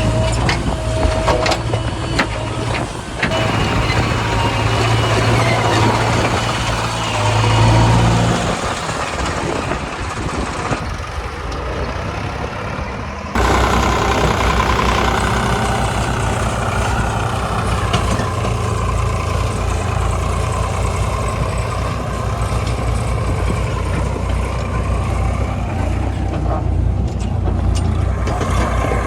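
Heavy diesel machinery engine running steadily, rising briefly in pitch and loudness about seven seconds in. The sound changes abruptly about thirteen seconds in and then runs on steadily.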